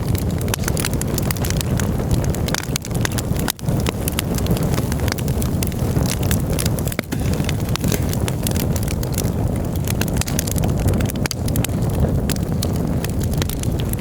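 Campfire crackling, with many quick sharp pops over a steady low rumble.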